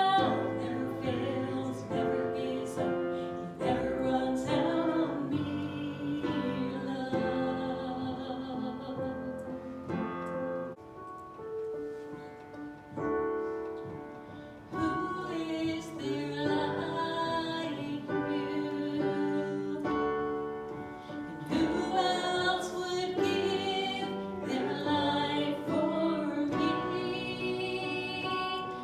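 A worship song sung to piano accompaniment, the voices holding long notes. It grows softer for a few seconds in the middle, then returns to full strength.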